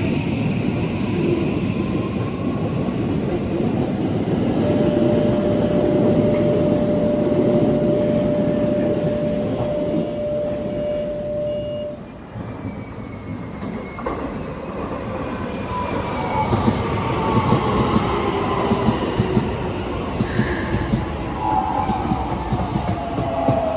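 Keikyu electric trains at a station platform: heavy rumble of wheels on rail, with a steady high tone held for about seven seconds in the first half. In the second half the traction motors whine with pitches rising as a train accelerates away.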